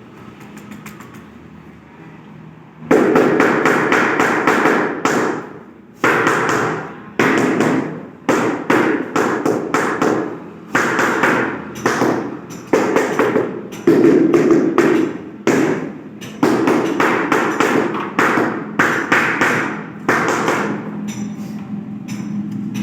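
A mallet tapping a large tile to bed it into mortar. Clusters of sharp, irregular knocks begin about three seconds in and keep going.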